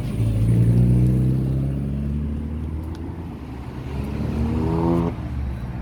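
Road traffic at a pedestrian crossing: a motor vehicle's engine passes close by with its pitch falling, then about four seconds in another engine note rises and cuts off sharply a second later.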